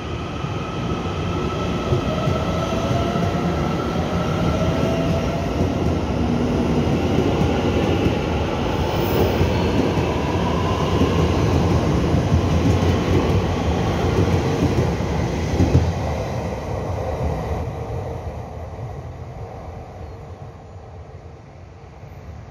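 Electric multiple-unit passenger train pulling out of the station and accelerating past: the traction motors whine, rising in pitch, over the rumble of the wheels on the rails. The sound builds to its loudest a little past halfway, then fades as the train draws away.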